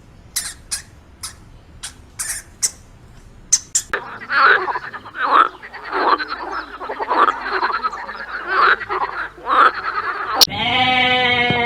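Frogs croaking in a rapid run of rasping calls, after a few seconds of sharp, separate clicks. Near the end a drawn-out, wavering bleat cuts in.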